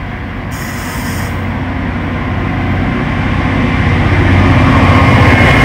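Train approaching, its rumble and low hum growing steadily louder, with a brief high hiss about half a second in.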